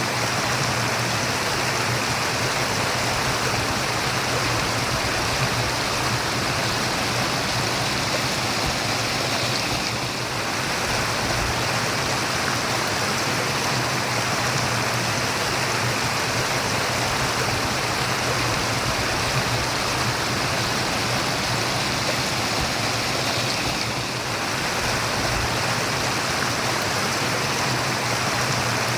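Running water of a stream babbling steadily, with a dense, even rush. The sound eases very slightly twice.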